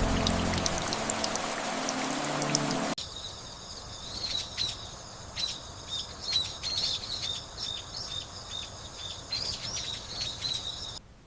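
Steady rain-like noise with a low rumble for about three seconds, then an abrupt cut to a chorus of quick, high bird chirps, many short calls a second, which stops shortly before the end.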